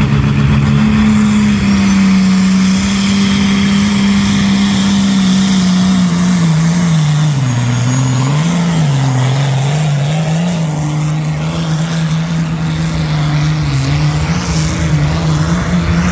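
Engine of a pulling vehicle running at high revs under full load on the pull track, its pitch dipping and recovering several times in the middle as it bogs under the sled's weight.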